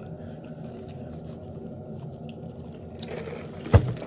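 Quiet eating and handling noises, faint scraping and rustling, over a steady low room hum. A single sharp thump comes near the end, the loudest sound.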